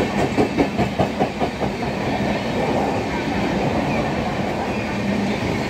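Express train's passenger coaches passing at speed, a steady rumble of wheels on rail. In the first second and a half the wheels beat over rail joints in a quick clickety-clack, about five beats a second.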